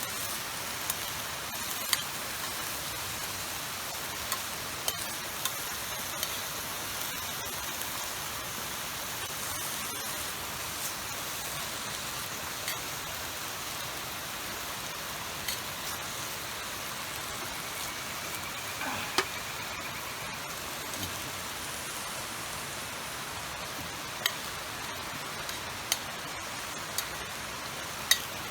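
Wood fire crackling, with sharp single pops every second or few over a steady rushing hiss.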